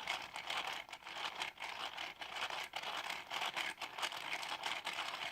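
Plastic LEGO parts clicking and rattling in a fast, irregular run of small ticks and scrapes.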